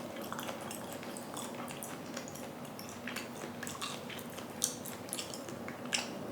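A person chewing raw chicken: a run of small, irregular mouth clicks, with two sharper ones in the second half.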